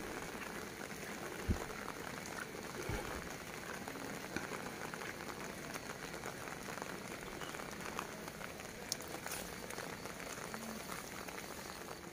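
Light drizzle falling on grass and a wet lane: a steady hiss with scattered small drop ticks. A single dull low thump about a second and a half in.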